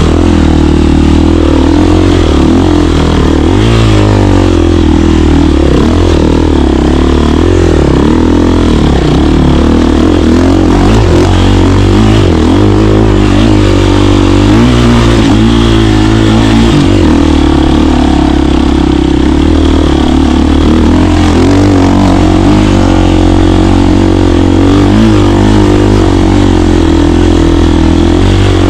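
KTM 350 dirt bike's single-cylinder four-stroke engine running loud and continuously while riding, its pitch rising and falling with throttle and gear changes.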